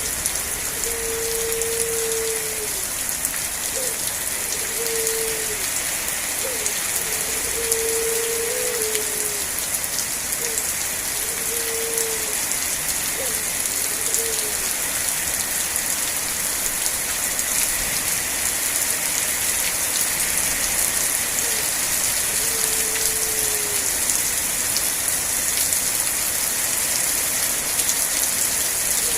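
Steady rain falling, an even dense hiss of drops on surfaces. A low, steady tone sounds several times in the first half and once more later, each time for about a second, ending with a slight drop in pitch.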